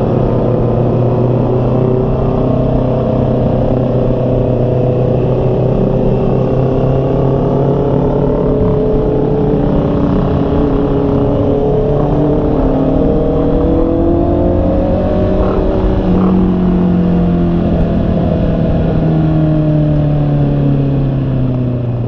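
Honda CB650R's 649 cc inline-four engine running under way, its note drifting gently up and down in pitch with the throttle.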